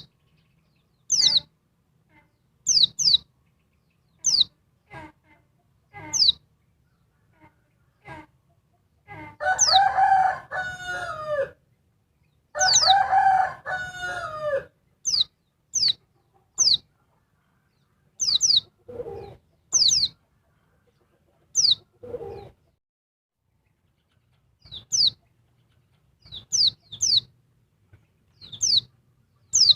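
Female white-eye (pleci) giving sharp, high, falling chirps, often in quick pairs, repeated every second or two. A rooster crows twice near the middle, and two short lower calls come later.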